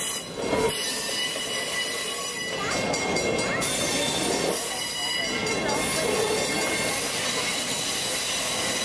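Train rolling through the crossing, its wheels squealing steadily on the rails.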